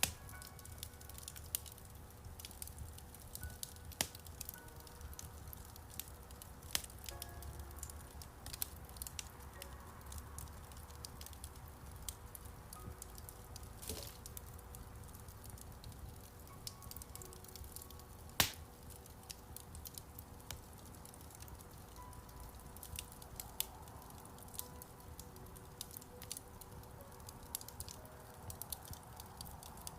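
Wood fire crackling in a fireplace: irregular sharp pops and snaps scattered throughout, a few louder ones, with soft piano notes sustained quietly underneath.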